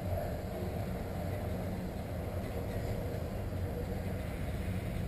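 Steady low rumble of a train in motion, heard from on board.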